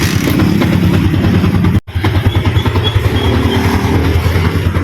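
Motorcycle engine running at a steady idle just after a cold start, as it is left to warm up. The sound cuts out for an instant just under two seconds in.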